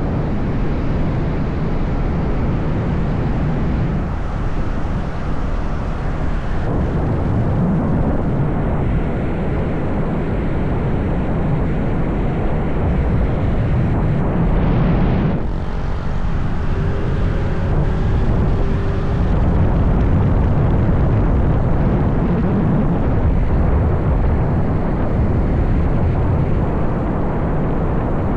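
Motorbike on the move: wind rushing over the microphone, with the engine running steadily underneath.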